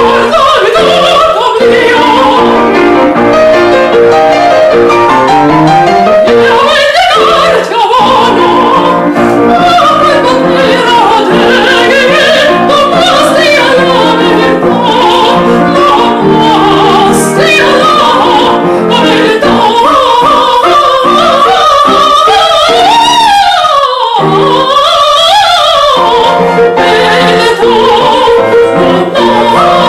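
A singer performing a song in a classical, operatic style with piano accompaniment. The voice carries a wide vibrato on its held notes.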